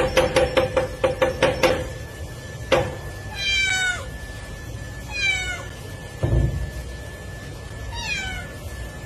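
A cat meowing three times, each meow sliding down in pitch. Before the meows there is a quick run of knocking taps, about five a second, that stops just before two seconds in, then a single knock. A dull thump falls between the second and third meows.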